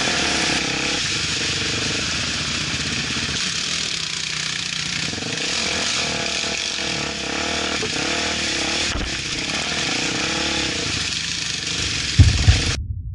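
Off-road motorcycle engine running and revving, its pitch rising and falling. About a second before the end, heavy low thumps begin and the engine sound cuts off abruptly.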